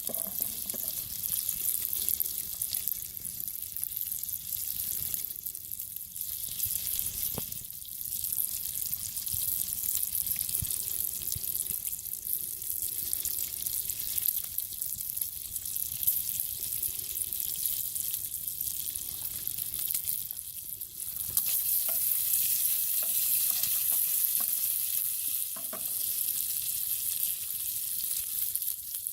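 Food sizzling and frying in a pan over a campfire, a steady hiss that swells louder for a few seconds about two-thirds of the way through, with a few faint clicks.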